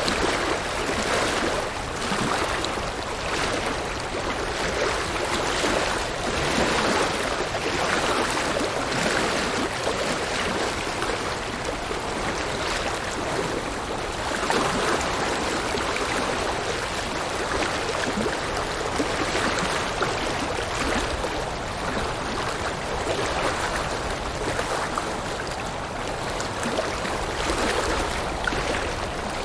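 River water rushing and splashing over rocks, a steady, full rushing sound with gentle swells in loudness.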